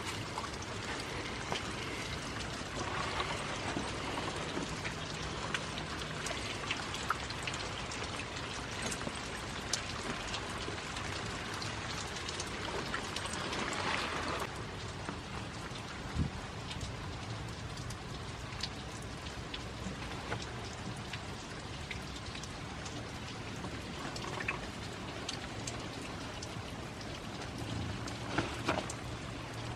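Steady rain falling, with many small drops ticking and pattering close by.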